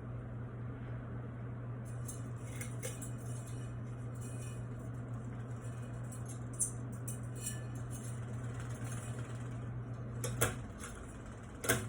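Hunter Eclipse ceiling fan motor humming steadily on high. About ten seconds in, the pull chain clicks and clinks, the hum stops, and the fan is left to spin down.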